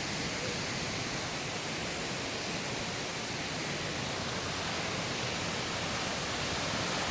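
Rushing water of a river and waterfall in a gorge, heard as a steady, even hiss.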